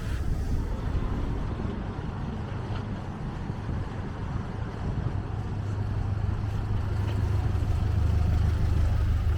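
City street traffic, with a motor vehicle's low engine rumble growing louder through the second half.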